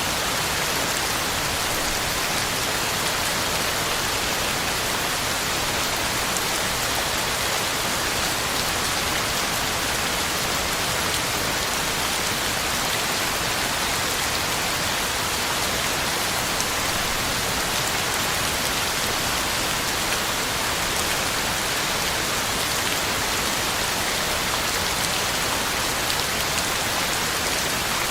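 Heavy rain falling steadily on the ground and leaves: a dense, unbroken hiss of drops with no thunder or other events.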